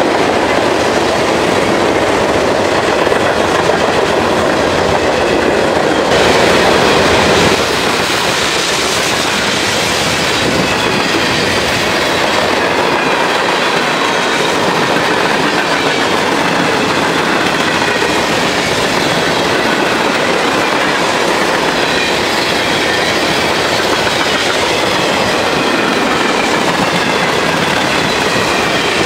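Freight cars of a long CSX mixed freight train rolling past close by: a steady rumble and clatter of steel wheels on the rails, with faint wavering high-pitched wheel squeal.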